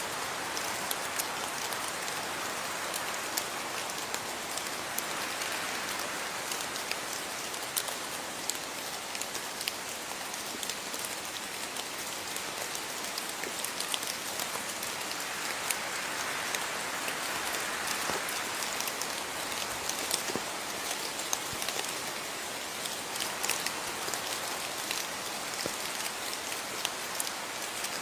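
Steady rain falling, a continuous hiss with many distinct drops ticking on a hard surface.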